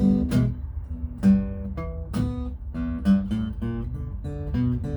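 Acoustic guitar played solo: picked bass notes alternating with strummed chords, a few a second.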